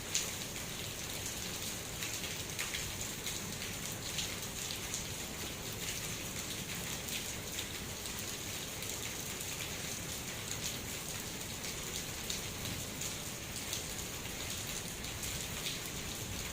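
Steady rain falling, an even hiss with frequent sharp taps of individual drops striking a surface.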